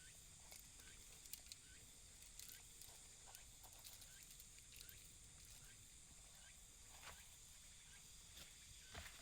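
Near silence: faint outdoor ambience with a steady high hiss, faint short chirps repeating about once or twice a second, and a few soft clicks.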